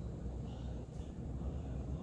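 44-inch Fanamation Islander ceiling fan with four blades running on high speed: a low, uneven whoosh of air whipping off the blades.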